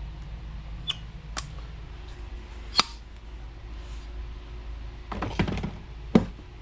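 Tools and parts being handled on a workbench: a few separate sharp clicks and knocks, then a short clatter and one more sharp knock near the end, over a steady low hum.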